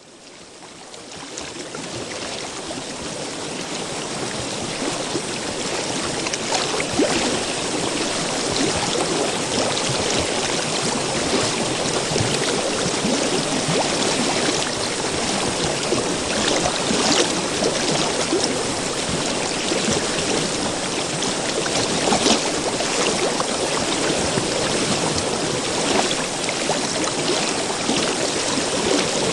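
River water flowing, a steady rushing and babbling with small splashes throughout; it fades in over the first couple of seconds.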